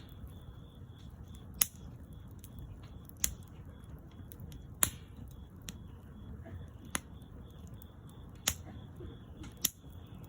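Wood fire crackling: about six sharp pops at irregular intervals over a low, steady rush of burning.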